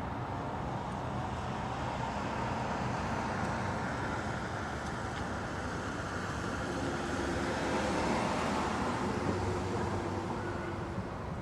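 Steady road-traffic noise, swelling to its loudest about eight seconds in as a vehicle passes, then easing off.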